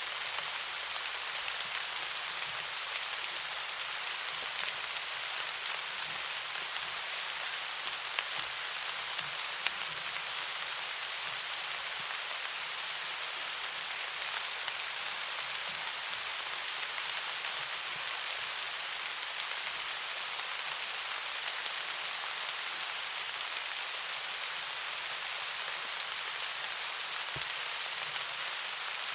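Steady rain falling, an even hiss with a few sharp ticks here and there.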